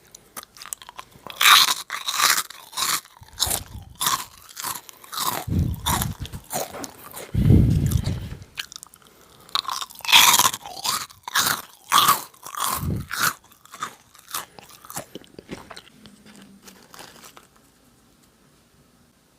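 Close-miked biting and crunching of Nongshim Jagalchi, a crisp fried snack cracker, with chewing in between. There are two loud bouts of crunching, about a second and a half in and again about ten seconds in, with a few deep thumps between them, and it dies away to quiet near the end.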